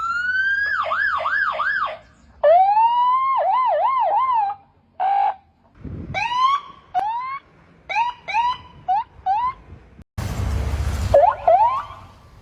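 Electronic siren sound effects: a rising wail that breaks into a fast up-and-down warble, played twice, then a run of short rising whoops. About ten seconds in there is a loud burst of hissing noise, followed by a couple of quick rising whoops.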